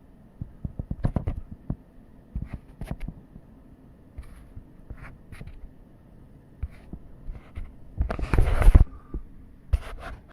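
Irregular light taps and low thumps, then a loud rush of noise about eight seconds in that lasts about a second.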